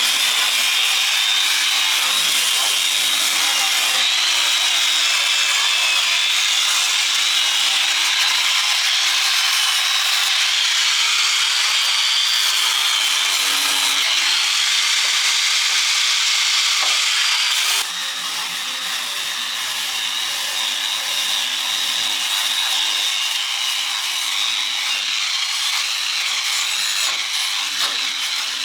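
Power tool working the steel of a truck chassis, a steady high-pitched grinding that runs unbroken and drops a little in level about eighteen seconds in.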